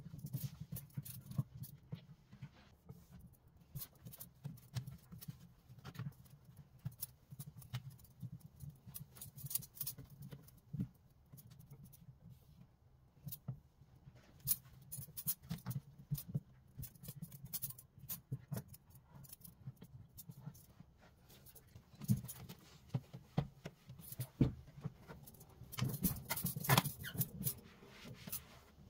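Household tidying sounds: scattered clicks, taps and light knocks of objects being handled and set down, over a low steady hum, with a denser burst of clatter near the end.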